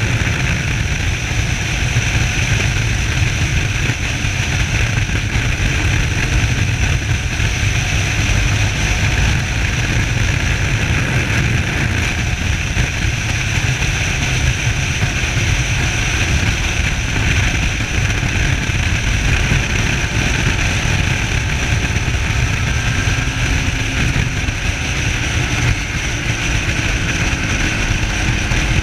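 Suzuki SV650S motorcycle on the move: its V-twin engine running steadily under heavy wind rush on a chest-mounted camera.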